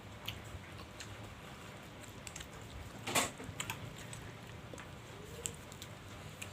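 Close-miked eating and utensil sounds from a bowl of shrimp-filled bakso: scattered small clicks and mouth sounds, with one louder sharp click about three seconds in.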